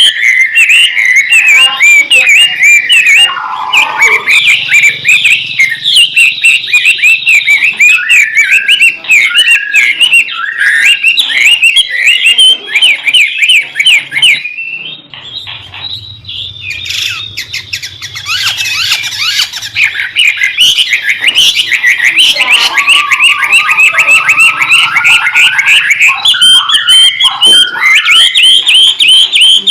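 White-rumped shama (murai batu) singing a busy, non-stop song of rapid repeated whistled and chattering notes, loud, with a short break about halfway before it picks up again.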